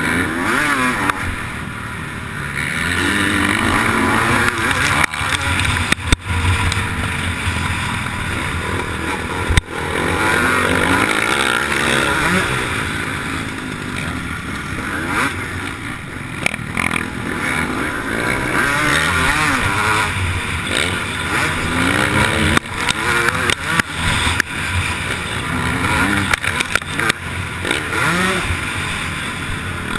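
Motocross bike engine under race load, its pitch rising and dropping again and again as the throttle opens and shuts, with wind noise on the onboard camera and several sharp knocks.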